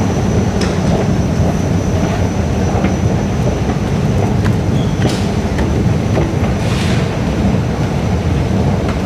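Singapore MRT Circle Line train running through a tunnel, heard from inside the car: a loud, steady rumble with a constant high-pitched whine and occasional clicks and rattles.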